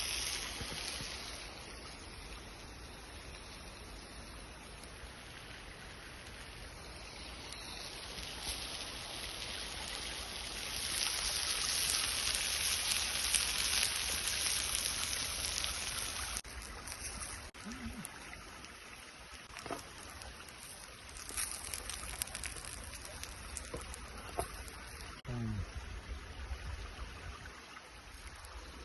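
Running water trickling and splashing over stones as a steady rush, swelling louder for a few seconds mid-way, with a few short falling tones in the latter half.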